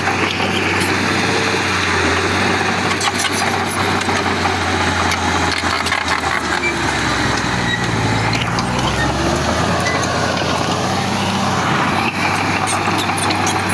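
Heavy diesel earthmoving machinery running steadily under work. The engine note drops lower from about seven seconds in and comes back up about two seconds later, with scattered sharp clicks.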